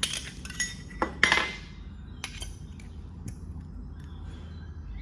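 Metal clinks and knocks of the espresso machine's stainless filter baskets being handled and swapped in the portafilter, a few sharp clinks in the first second and a half, then lighter scattered taps.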